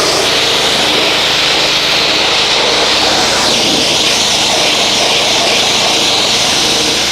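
Pressure washer running and spraying a steady, loud jet of water onto the car's bodywork over the hum of its motor. The spray cuts off right at the end while the motor keeps running.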